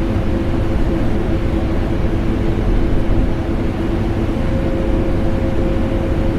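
Vacuum cleaner motor running steadily, layered with air conditioner noise: an unbroken deep rushing drone with a steady hum in it.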